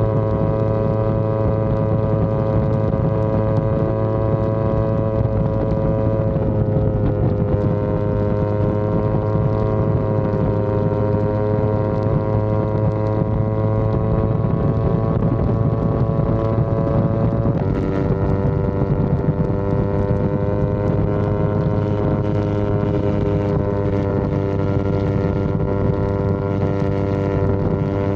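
Yamaha R25 parallel-twin engine running steadily under way at a sustained high speed. Its pitch drops in a step twice, about six seconds in and again near eighteen seconds.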